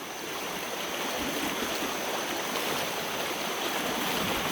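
Shallow creek rapid, knee-deep water rushing steadily over the rocky bed, a little louder after the first second.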